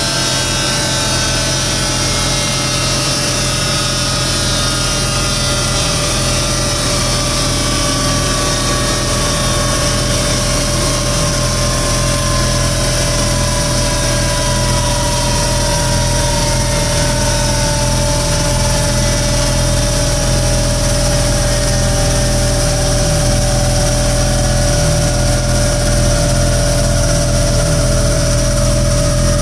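Suzuki Hayabusa's inline-four engine idling through an Akrapovic full exhaust system, steady and even. Above it runs a whine that slowly falls in pitch.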